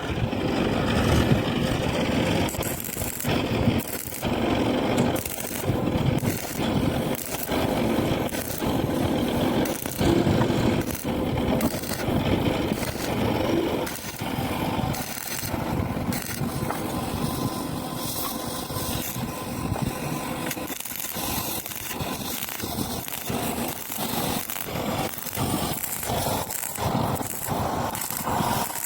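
Electric arc welding: a continuous crackling, sizzling arc, broken by many short irregular pops and gaps.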